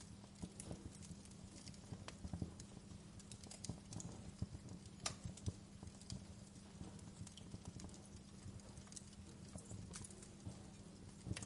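Fire crackling: irregular sharp pops and snaps, a few louder ones standing out, over a low steady rumble.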